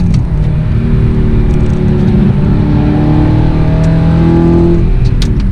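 Audi R8's V8 through an Armytrix titanium exhaust, accelerating hard on track through a manual gearbox. The revs drop at a shift right at the start, climb steadily through one long pull, then drop again at another shift just before the end.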